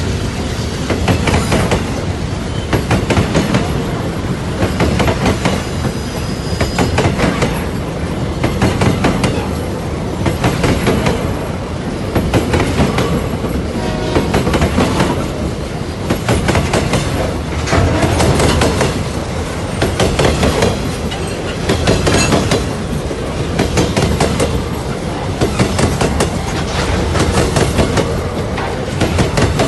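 Freight train wagons rolling past close by, their wheels clattering over the rails in a steady repeating rhythm, a burst of clacks about every two seconds as each wagon's wheel sets go by.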